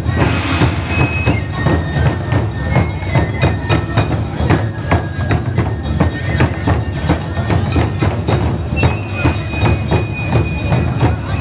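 Japanese festival music played live: fast, dense percussion strikes over a steady low drum, with a few high notes held for a second or two.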